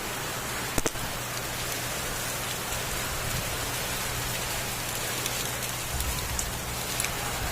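Heavy rain pouring down steadily, with one sharp tap just under a second in.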